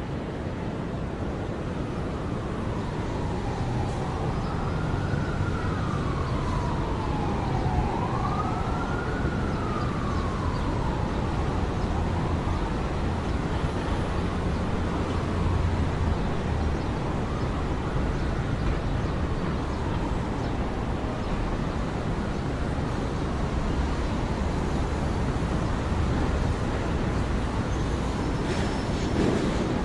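An emergency vehicle siren wailing slowly up and down, about one rise and fall every four seconds, loudest in the first third and then fading away, over a steady low rumble of city traffic.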